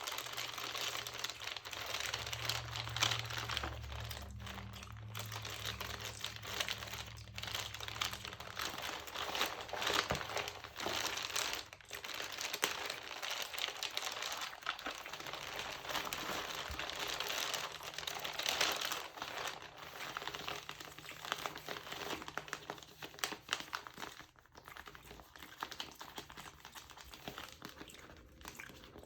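Crinkle-textured magazine paper being crinkled and handled close to the microphone, a dense run of small crackles that rises and falls in loudness.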